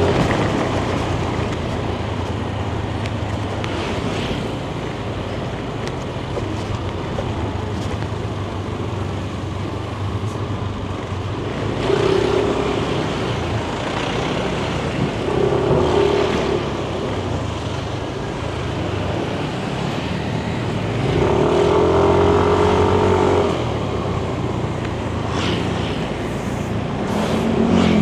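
Yamaha Nmax 155 scooter's single-cylinder engine running under way, heard from the rider's seat with road and wind noise. A louder pitched engine tone swells up briefly about four times.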